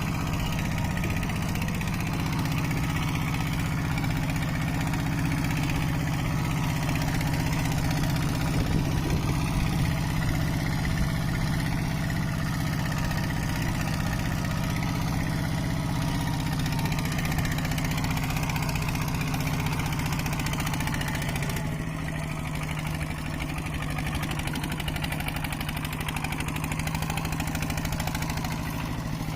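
Mini tractor's engine running steadily, easing off slightly a little past two-thirds of the way through.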